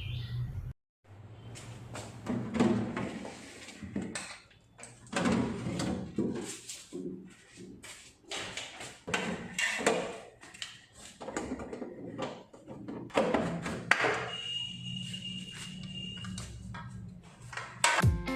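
Irregular knocks, clinks and scrapes of glass refrigerator shelves being slid out of their runners and set down. Guitar music comes in near the end.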